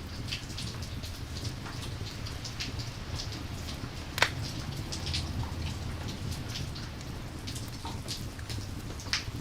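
Steady rain ambience, a low even wash with many short sharp pops scattered through it and one louder crack about four seconds in.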